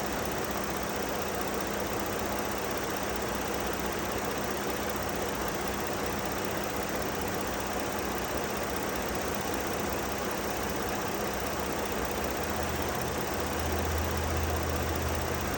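2008 Ford Edge's 3.5-litre V6 idling steadily with the air conditioning running while the system is charged with refrigerant. A deeper hum comes in about thirteen seconds in.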